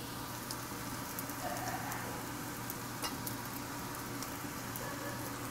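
Rice frying in hot oil in a stainless steel pan: a steady sizzle with faint scattered crackles.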